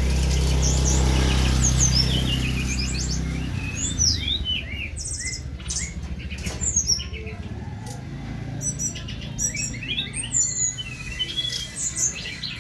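Caged songbirds singing, with many quick chirps and trilled, rising and falling calls overlapping. A low steady hum sits under them and stops about three and a half seconds in.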